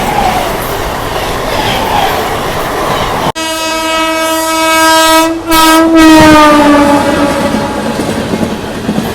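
Inside a fast-moving electric local train: steady rushing rail noise with wheel clatter, then a few seconds in a loud train horn sounds, breaks once briefly, and slides down in pitch as it fades, the horn of a train passing alongside.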